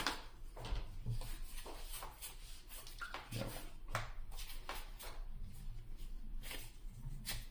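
Yu-Gi-Oh trading cards and their booster pack being handled, with irregular soft rustles and light clicks as the cards are slid and flipped.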